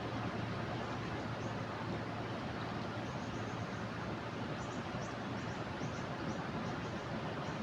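Swollen river water rushing steadily over a weir in flood. From about three seconds in there are faint, short, high chirps, repeated several times.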